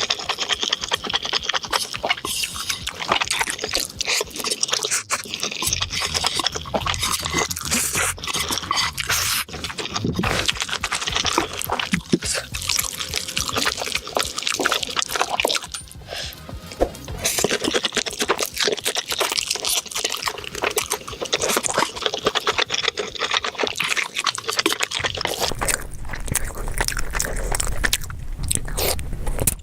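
Close-miked eating sounds: wet chewing, slurping and crunching of food, a dense run of small irregular clicks and smacks.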